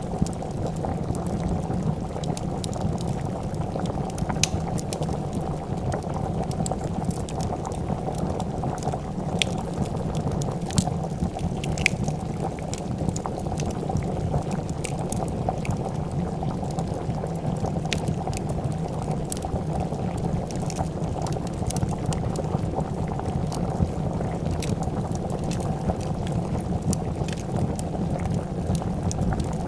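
A pot of soup boiling with a steady bubbling, over which come scattered sharp crackles and pops of a wood fire.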